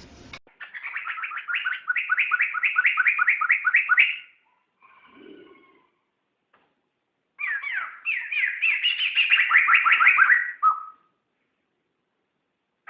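Poksay (laughingthrush) singing: two quick runs of about five repeated notes a second, each lasting roughly four seconds, with a pause between them holding a soft, lower call. The second run ends on a short note.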